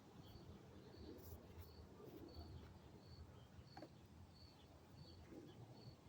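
Near silence: faint room tone with short high chirps repeating evenly about every three quarters of a second.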